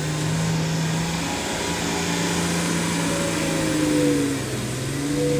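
Truck engine running steadily, with a brief rise in pitch and loudness about four seconds in.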